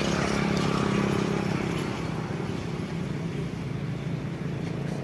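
A motor vehicle engine running steadily, a little louder about a second in, over outdoor background noise.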